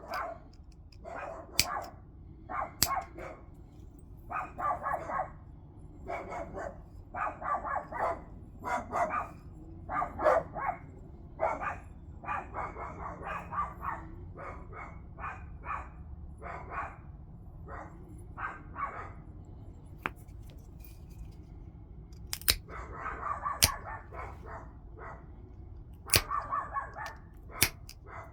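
Flintknapping: repeated short rasping strokes of tool on stone, broken now and then by sharp clicks of strikes and flakes coming off.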